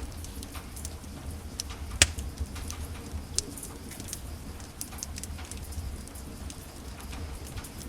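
Wood fire burning in a fireplace: irregular crackling and snapping over a low steady rumble of the flames, with a sharp loud pop about two seconds in and another smaller one about three and a half seconds in.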